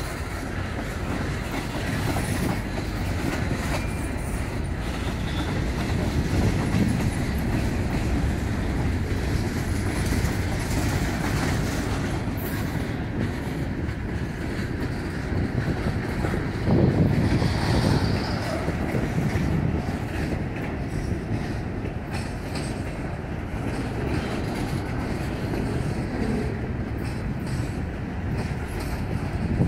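Freight cars of a Norfolk Southern train, tank cars and then boxcars, rolling past close by: a steady noise of steel wheels on rail, louder for a moment about seventeen seconds in.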